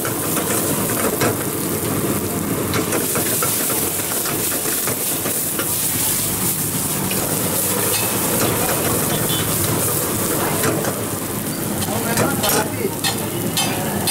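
Chopped red onion and spices sizzling steadily in hot oil in a wok over a gas flame, stirred with a steel ladle. Sharp metal clinks of ladle and wok come more often near the end.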